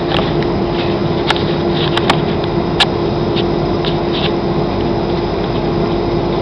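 Steady airliner cabin noise in flight: a continuous rush of engine and airflow with a steady hum. A few sharp clicks come about one to three seconds in.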